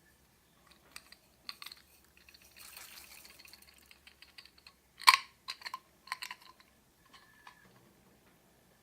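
Glossy slime being pressed and stretched by hand, giving off scattered sticky clicks and small pops, with a soft crackling stretch partway through and the sharpest pop about five seconds in.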